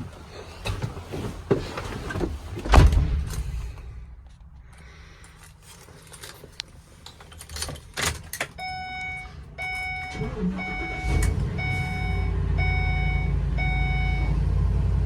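Keys jangling and knocks in the cab of a 2016 Ford E350 box truck, then a repeating warning chime. About ten seconds in, the starter cranks briefly, and the engine catches and settles into a steady idle after sitting for about 20 hours.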